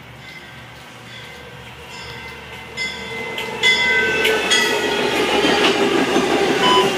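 MARC push-pull commuter train approaching and passing close by, cab car leading: the rumble of the train builds steadily and jumps sharply louder as the cab car arrives about three and a half seconds in. Thin high squealing tones from the wheels on the rails run over the rumble.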